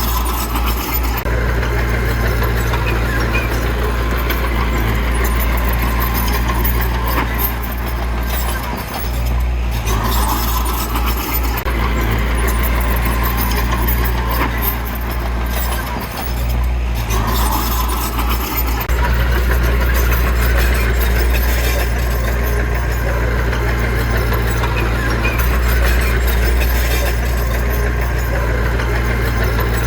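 Heavy diesel engine of earthmoving machinery running steadily under load, a deep constant drone with a few brief swells in noise.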